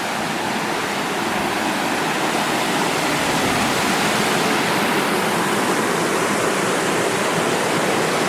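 Waterfall pouring, a steady dense rush of falling water that gets a little louder about two seconds in.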